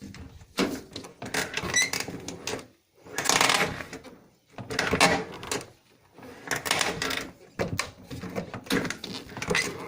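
A car door swung open and closed several times, creaking and squeaking as it moves: the noise of dry, rusty hinges and door check strap.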